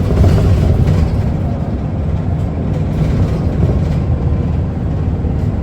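Cabin running noise of an Isuzu Erga city bus's four-cylinder diesel coming to a stop: a steady low engine and road rumble that eases slightly a second or two in as the bus slows.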